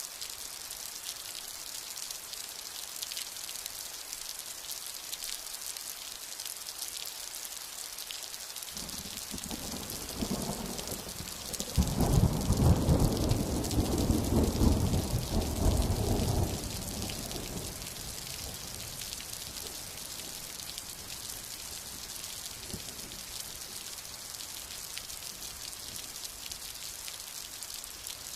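Steady rain hissing throughout, with a roll of thunder that builds about a third of the way in, cracks loudest about twelve seconds in and rumbles away over the next five seconds.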